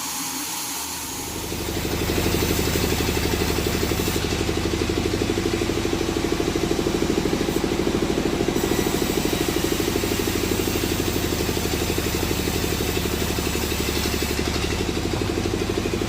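An engine starts up about a second in and then runs steadily at a constant speed, with a fast, even pulse.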